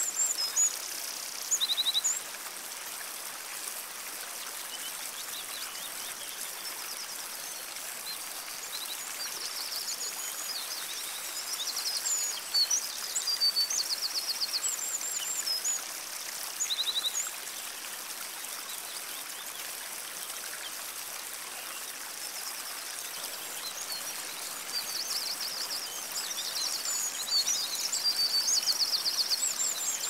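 Small songbirds singing: high chirps, whistled notes and rapid trills, coming in bunches that are busiest in the middle and near the end, over a steady, even background hiss.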